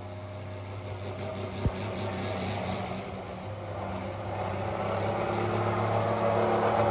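John Deere 4320 pulling tractor's six-cylinder diesel running steadily, growing gradually louder. A single sharp click sounds about two seconds in.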